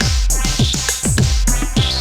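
Electronic beat music: several drum hits a second, each dropping in pitch, over sustained keyboard chords and a steady bass.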